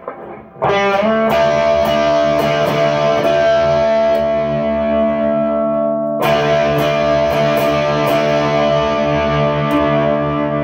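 Electric guitar with distortion through a loud tube amp: a chord struck about half a second in and left to ring, then struck again about six seconds in and held.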